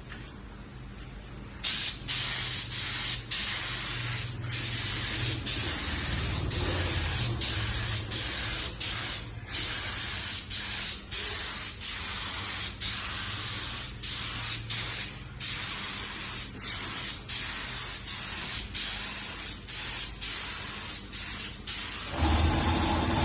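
Compressed-air spray gun spraying in long hissing passes, cut by many brief trigger releases, over a faint low hum. Near the end a steady low motor drone takes over.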